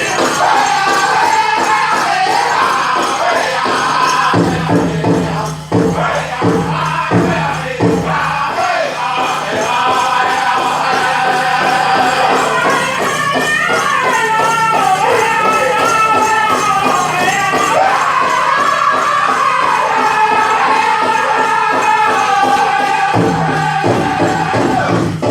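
Pow wow drum group singing a chicken dance song: high sliding voices in unison over a steady beat on a big drum, with jingling of dancers' bells throughout. The drum beats turn heavier and louder for a few seconds about four seconds in, and again near the end.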